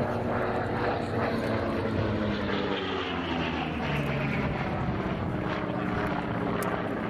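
Grumman F8F-2B Bearcat's Pratt & Whitney R-2800 radial engine on a fast display pass at a relatively conservative cruise power setting. The engine note drops in pitch as the fighter goes by, about halfway through.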